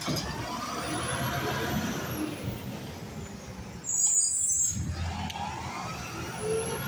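Garbage truck's diesel engine running with gliding whines as it works, and a short, loud air-brake hiss about four seconds in.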